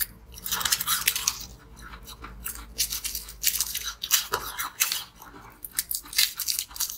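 Crunchy biting and chewing of a chocolate ball, with the foil wrapper crinkling in the hands.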